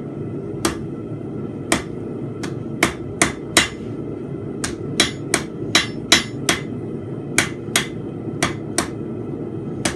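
Blacksmith's hammer striking hot steel bar stock on an anvil while forging a fence peg: about twenty sharp, ringing blows in irregular runs with short pauses between. A steady low rumble runs underneath.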